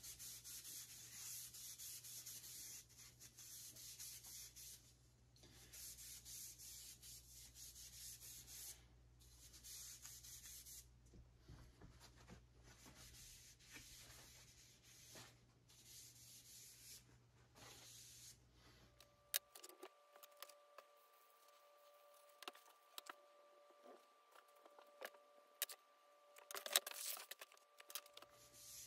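Abrasive paper rubbing along Port Orford cedar arrow shafts in hissy strokes of a second or two each, with short pauses. About two-thirds of the way through, this gives way to scattered light clicks and taps over a faint steady hum.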